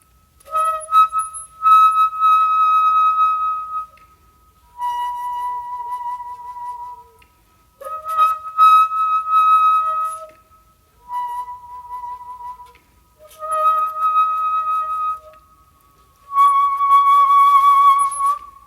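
Solo shakuhachi, the Japanese end-blown bamboo flute, playing a slow honkyoku melody. Long held high notes alternate between two neighbouring pitches, in six phrases broken by short pauses for breath. Each note starts with a breathy attack, and the last one is held with a wavering vibrato.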